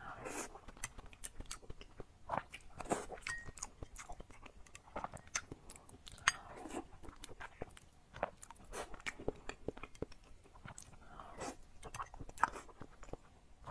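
Close-up wet chewing and lip smacks of a person eating soft spicy braised pig brain, with many short, irregular clicks.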